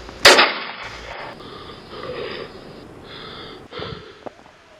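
Heavy, gasping breaths, roughly one a second, after one sudden loud sound just after the start.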